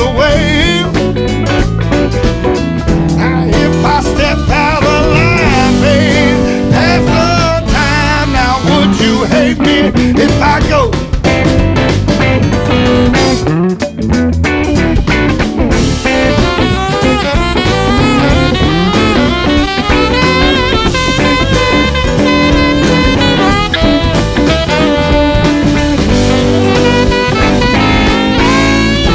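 Live band playing a bluesy song with guitar and drum kit.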